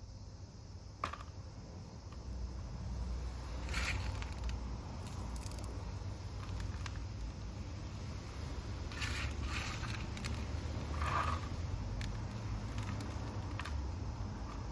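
Short scraping and rustling noises a few times over a steady low rumble, as of succulents, soil and pots being handled during replanting.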